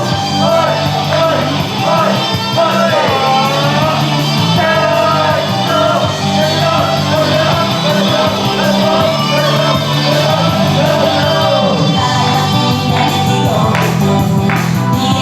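Japanese idol pop song performed live: a female singer singing over a loud, steady backing track.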